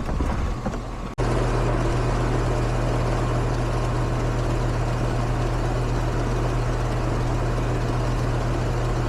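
Outdoor unit of a Lennox heat pump running in cooling mode: a steady low compressor hum under the rush of the condenser fan. It jumps louder about a second in and then holds steady.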